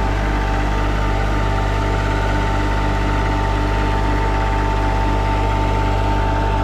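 Engine of a KRT ST900HD mini skid steer running steadily, with a constant whine above the engine note.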